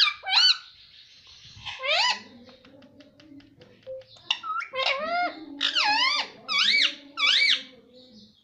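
Pet parrot giving a string of high, squeaky calls that sweep up and down in pitch, with a quick run of clicking about two to four seconds in, then four similar calls in a row near the end.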